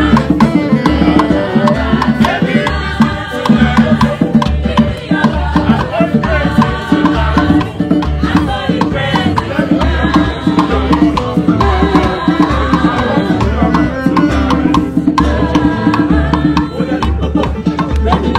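Live ogene band music: busy hand drums and percussion over a steady deep beat, with pitched instruments or voices above.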